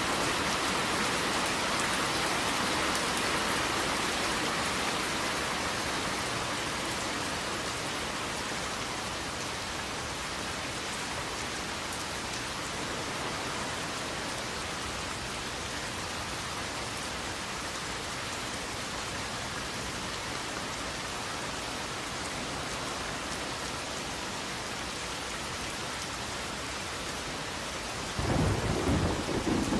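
Steady rain falling, with thunder: a louder stretch eases off over the first several seconds, and a fresh rumble of thunder breaks in suddenly near the end.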